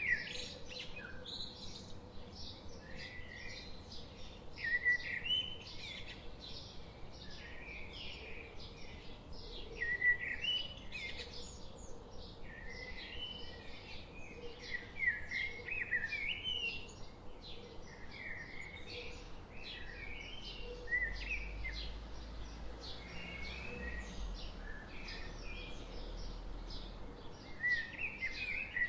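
Canada goose goslings peeping without pause, many short high chirps overlapping. A low rumble joins in during the second half.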